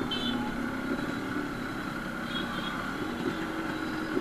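Yamaha RX100's two-stroke single-cylinder engine running steadily through a silencer whose inner baffle has been cut out for a louder exhaust note.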